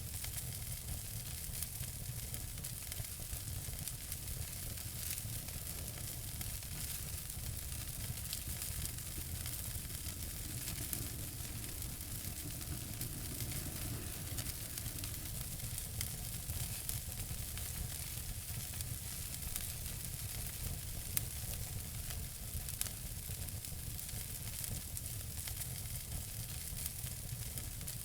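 Wood fire in a fireplace crackling steadily: a constant hiss with a low rumble under many small pops and clicks, one slightly louder pop about two-thirds of the way through.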